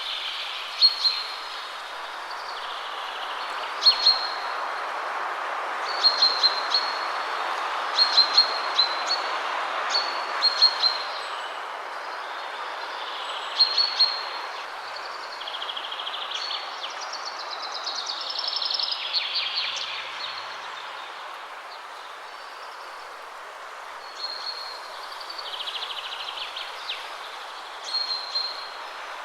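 Wind rushing through trees, swelling and easing, with birds singing over it: short sharp chirps repeated every couple of seconds, and a few longer trills near the middle and towards the end.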